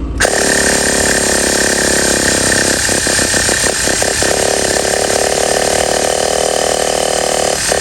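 Enya .15CX 2.45 cc two-stroke glow engine running at high revs with a steady, high-pitched note. About three seconds in it runs unevenly for a second or so, then settles into a steady run again.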